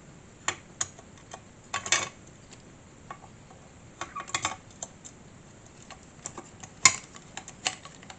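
Irregular small clicks and taps of plastic and metal model parts being handled and fitted together, with a few brief clusters and one sharper click near the end.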